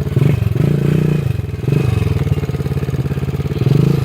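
Irbis TTR 110 pit bike's small single-cylinder four-stroke engine revved in short throttle surges, its pitch rising and dropping back three times as the bike is eased along.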